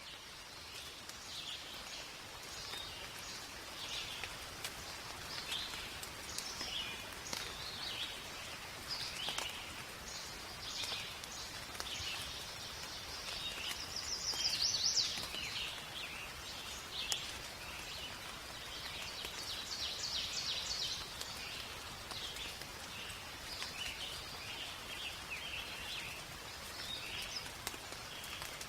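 Steady rain falling in a forest, with fine drop ticks and many birds chirping and singing in short phrases throughout. The busiest burst of birdsong comes about halfway through.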